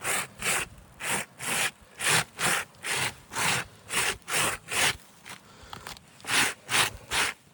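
Asphalt roof shingles being wiped in quick back-and-forth rubbing strokes, about two to three a second, with a short pause about five seconds in. The wiping loosens the surface granules, showing the granule loss left on shingles disturbed by the repair.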